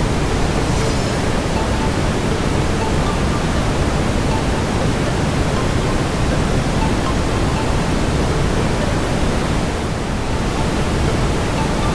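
Steady brown noise, an even hiss weighted toward the low end, with faint fireplace crackles under it.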